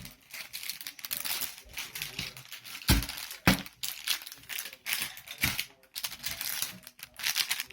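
Plastic blind-bag wrapper crinkling and tearing as it is opened by hand, in irregular bursts, with a couple of sharp knocks about three seconds in.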